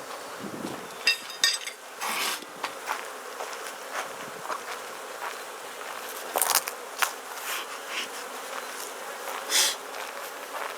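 Honeybees buzzing steadily around a Langstroth hive, with a few short sharp knocks or clicks scattered through it, the loudest about two seconds in and near the end.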